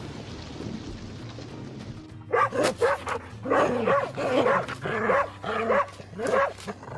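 An animal calling in short, repeated barking yelps, about two a second, starting about two seconds in after a steady noisy hiss.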